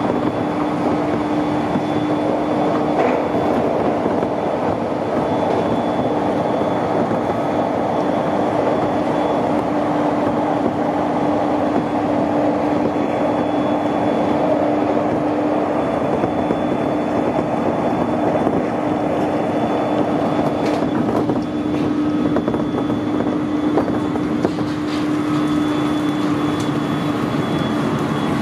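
Electric train running at a steady speed through a tunnel, heard from just behind the driver's cab: an even rumble of wheels on rail with a constant hum held throughout.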